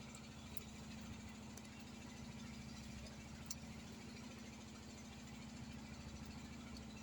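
A small engine idling steadily with a low, even hum.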